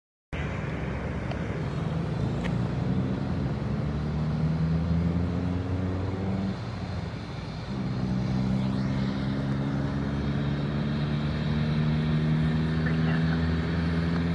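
Steady engine drone with a low pitched hum, creeping slightly up in pitch, dipping briefly about halfway through, then running steady again. The sound cuts out completely for a moment at the very start.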